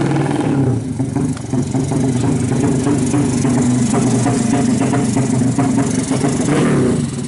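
Loud 200cc racing motorcycle engine running at a steady speed with a rattly edge, then cutting off abruptly near the end.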